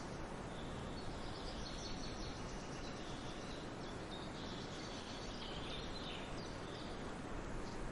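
Small songbirds chirping and twittering in many short, quick phrases over a steady wash of wind and distant waterfall.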